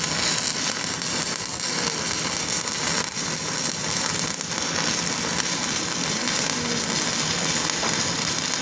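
Stick (SMAW) welding arc crackling and sizzling steadily while the final pass is run on a pipe joint.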